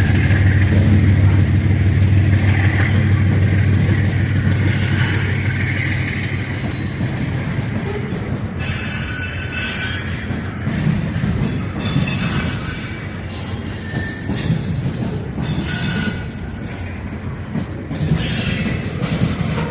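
A diesel locomotive's engine runs steadily and fades away over the first several seconds. From about eight seconds in, slow-rolling rail cars give repeated high-pitched wheel squeals and screeches, mixed with clanks, typical of cars working through tight yard track during switching.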